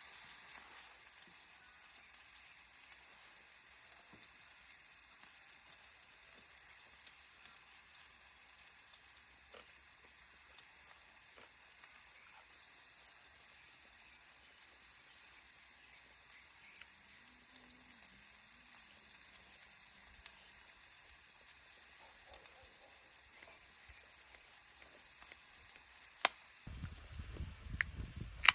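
Pork galbi sizzling faintly and steadily as it grills over a wood stove. Near the end this gives way to a louder low rumble with a few sharp clicks.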